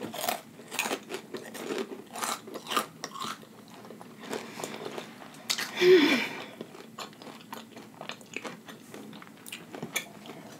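Close-miked chewing of a mouthful of food, with many small wet smacks and crunches from the mouth. About six seconds in there is a louder stretch with a brief falling hum.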